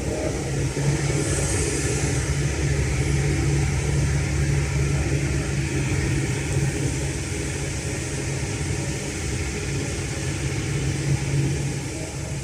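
Hino J05E-TG four-cylinder turbodiesel of a Kobelco SK210LC excavator running steadily at a constant speed.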